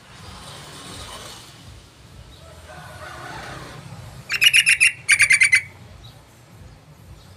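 Yellow-vented bulbul (trucukan) calling: two quick bursts of rapid, chattering notes, about four and five seconds in, over a faint background.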